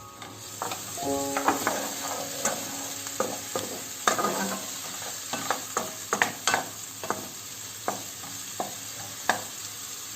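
Food frying and sizzling in a pan while a utensil stirs it, with frequent clicks and scrapes against the pan. The sizzle starts about half a second in.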